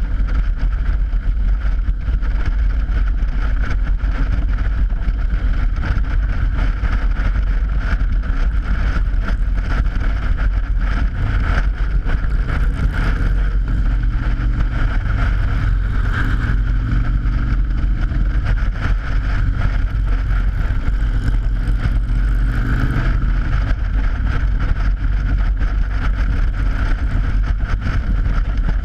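A motorcycle riding over the Mackinac Bridge's open steel grate deck: heavy wind rumble on the helmet-mounted action camera's microphone, with a steady singing hum from the tyres on the grating. An engine's droning tone comes up about eleven seconds in and fades out about twenty-three seconds in.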